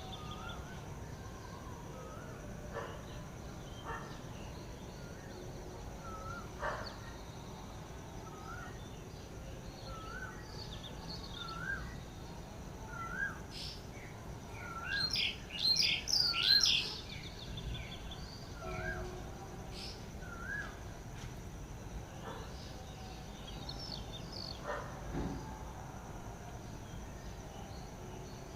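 Wild birds calling. One bird repeats a short rising whistled note over and over, about once every three-quarters of a second. Around the middle, another bird gives a quick cluster of loud, high chirps, the loudest sound here, over a steady high hiss.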